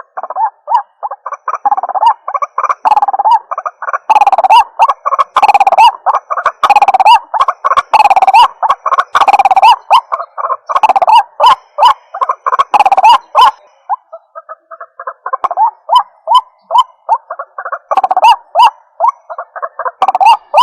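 White-breasted waterhen (ruak-ruak) calling: a long, fast series of repeated short notes, a few each second, softer for a few seconds past the middle.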